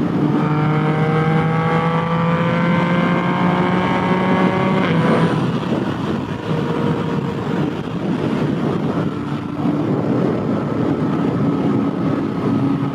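Yamaha FZ-09's 847 cc three-cylinder engine under way, its note climbing steadily under acceleration for about five seconds. The note then drops sharply, and from about nine seconds on it holds steady.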